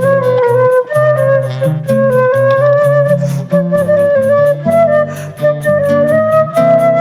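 Choro played by a small ensemble: a flute carries the melody over lower accompanying notes, with a fast, steady high-pitched percussion pulse.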